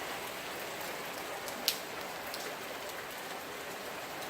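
Heavy rain falling steadily, a dense hiss of drops on surfaces with little wind, and a single sharp drip or tap about a second and a half in.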